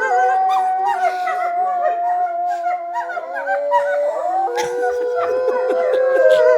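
A pack of wolves howling in chorus: several long howls at different pitches overlap, some sliding up or down as others hold steady.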